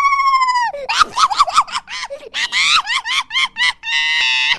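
A ringtone sound clip of very high-pitched, voice-like squealing: one long held cry, then a quick run of short rising-and-falling squeaks, then a steadier wavering tone near the end.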